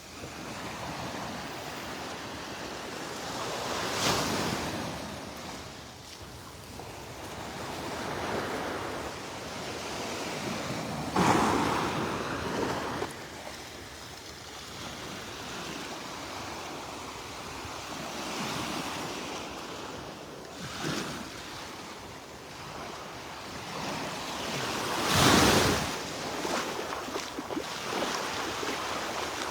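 Gulf of Mexico surf washing steadily on the beach, with wind on the microphone; the surf is small, settling after days of rough weather. The noise swells louder three times, about 4, 11 and 25 seconds in.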